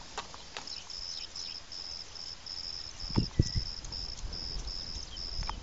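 Insect chirping in a steady rhythm of about three short high pulses a second, with a few low thumps about three seconds in.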